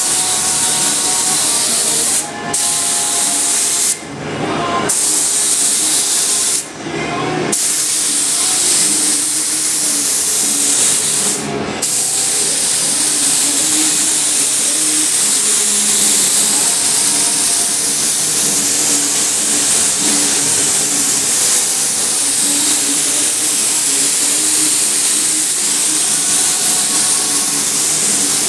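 Compressed-air paint spray gun hissing steadily as it sprays primer on car body panels, with the trigger let off briefly four times in the first twelve seconds before a long unbroken pass.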